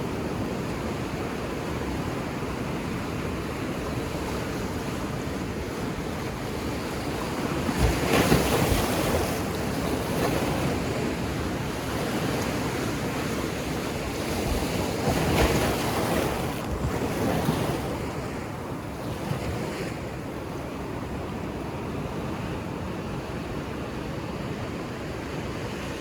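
Ocean surf washing steadily onto a beach, with two louder waves breaking about eight and fifteen seconds in.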